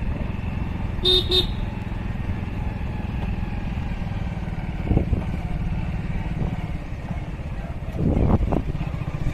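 Motorcycle running along a road with a steady low rumble, and a horn giving a short double toot about a second in.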